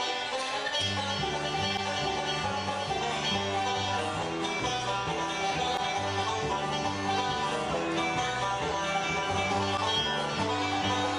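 Bluegrass band playing a banjo instrumental: banjo picking over guitar and a walking double bass. The music starts suddenly at the very beginning.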